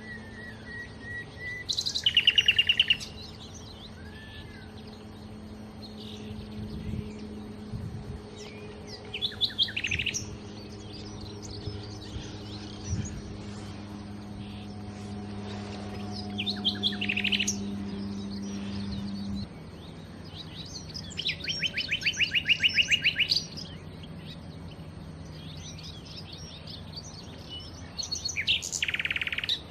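Nightingale singing: five separate song phrases, each built on a fast trill of rapidly repeated notes, with softer chirps in the gaps between them. A low steady hum sits underneath and cuts off about two-thirds of the way through.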